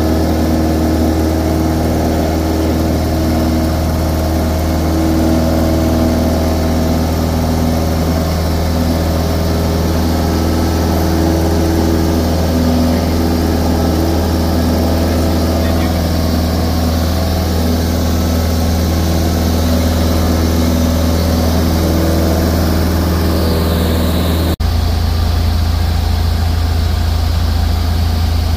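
Cessna 172's piston engine and propeller droning steadily, heard from inside the cockpit. Near the end the sound breaks off abruptly and resumes with a slightly different low hum.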